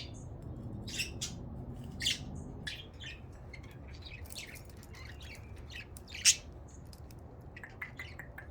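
Budgerigars chirping and squawking in a run of short, sharp calls, the loudest a single squawk about six seconds in.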